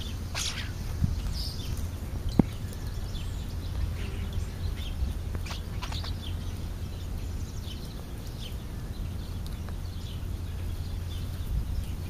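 Short scattered bird chirps and calls from birds feeding on the ground, over a steady low rumble, with one sharp tap a little over two seconds in.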